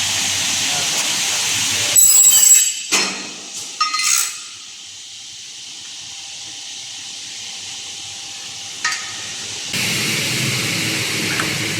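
A semi-automatic dual circular saw aluminium-profile cutting machine working through a cycle. A steady hiss is cut off about two seconds in by a loud burst with a brief high ringing tone, followed by several sharp clanks. It then runs quieter, with one more clank, until the hiss comes back near the end.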